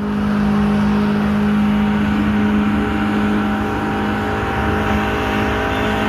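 Car engine held at high, steady revs: one loud, constant drone that barely changes in pitch, with a rushing noise over it.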